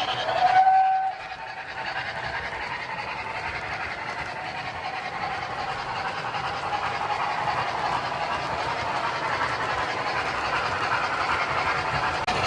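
O-scale MTH Proto-Sounds 2 steam locomotive sound system giving a short whistle toot about half a second in, followed by steady running sounds of the train on the track.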